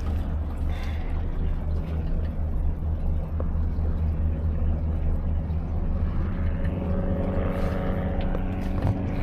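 New Mercury outboard motor running at low RPM during break-in, a steady low rumble. A clearer pitched engine hum joins in during the last few seconds.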